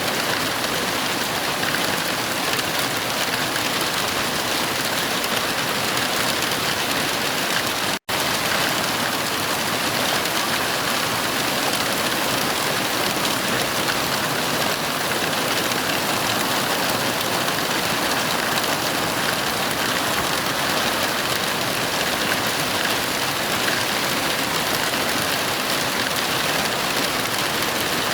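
Heavy rain falling steadily, with a brief split-second dropout about eight seconds in.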